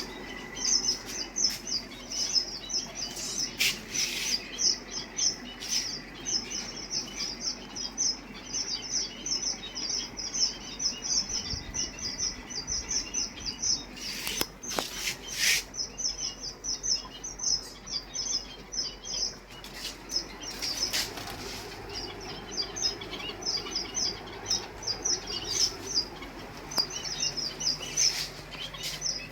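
Many small caged birds chirping rapidly and continuously, with a few louder harsh bursts about four seconds in and again around the middle.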